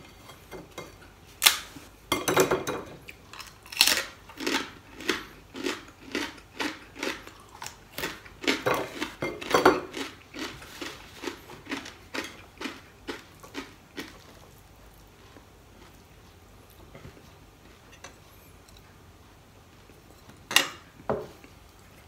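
Crispy fried pork skin crunching as it is bitten and chewed close to the microphone, sharp crunches about two a second for some twelve seconds, then stopping. Two sharp clacks come near the end.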